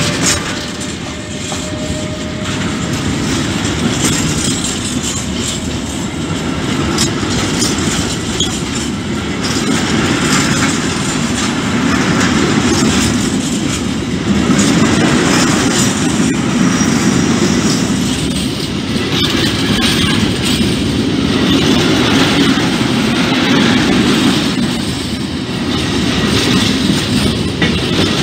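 Freight train of hopper wagons passing close by: a steady heavy rumble of wheels with a repeating clickety-clack as the bogies cross the rail joints, swelling and easing as each wagon goes by.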